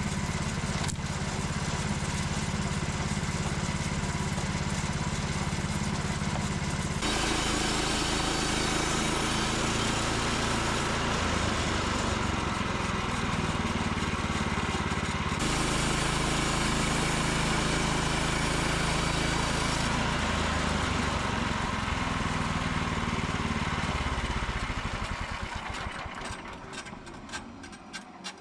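Small gasoline engine driving a saw through a log, its note shifting a few times as the load changes. Near the end it is shut off and winds down, leaving a few clicks and rubbing sounds.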